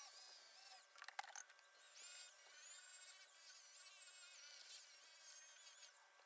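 Corded variable-speed drill spinning a sanding pad with 800-grit paper against a stainless steel exhaust tip: a faint motor whine that stops just before a second in, with a few light clicks in the pause. It starts up again with a rising pitch about two seconds in, dips briefly near five seconds, and stops near the end.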